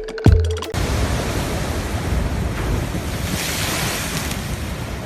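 Storm surf on the sea and strong wind buffeting the microphone: a steady rushing noise, with a louder hiss of surf about three and a half seconds in. The last hit of an electronic music intro cuts off in the first second.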